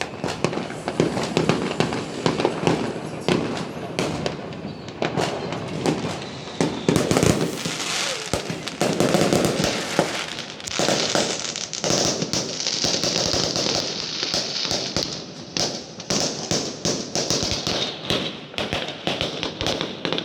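Fireworks going off in quick, irregular succession: many sharp bangs and crackling pops. A steady hiss joins in about halfway through and fades a few seconds before the end.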